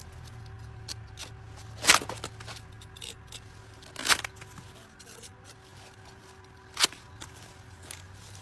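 A series of short, sharp handling sounds, clicks and scrapes, with three louder ones about two seconds apart, over a faint steady low hum.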